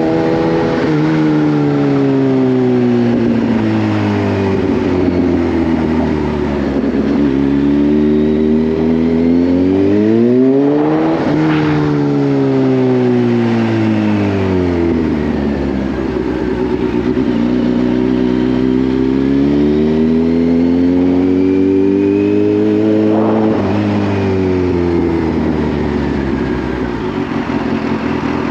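Kawasaki Z H2's supercharged inline-four engine ridden at an easy pace, its note climbing and falling several times. Two sharper climbs peak about 11 and 23 seconds in, then drop away quickly.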